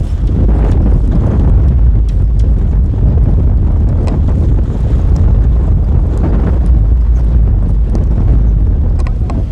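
Strong gusting wind in a snowstorm buffeting the microphone: a loud, continuous low rumble.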